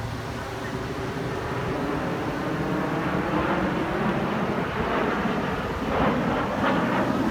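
Aircraft flying over, a steady engine roar that swells from about three seconds in.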